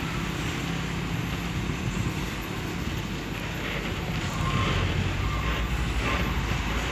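A heavy truck's engine running steadily, a low hum under continuous road noise.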